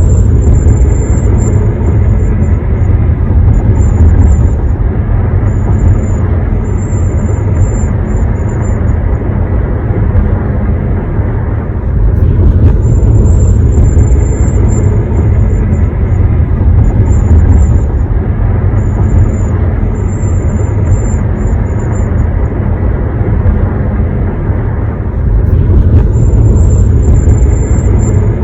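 2021 Honda HR-V cabin while driving: a steady low road-and-engine drone, with a piercing high-pitched whistle that comes and goes every few seconds. The owner takes the whistle for a design flaw of the car.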